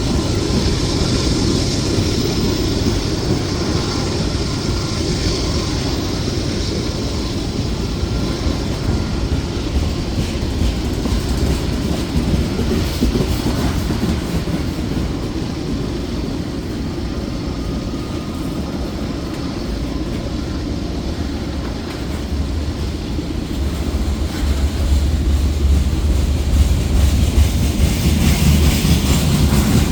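Slow-moving grain train rolling past, its cars rumbling and wheels clicking over the rail joints, growing louder over the last few seconds.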